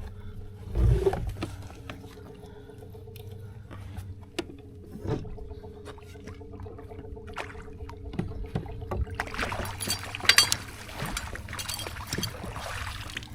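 Knocks and clicks of gear being handled on a kayak over a steady low hum, with a sharp low thud about a second in. Water splashes and trickles for the last few seconds.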